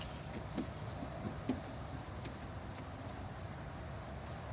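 A few faint, short plastic clicks and knocks as the cap of a car's brake fluid reservoir is worked off, over steady outdoor background noise.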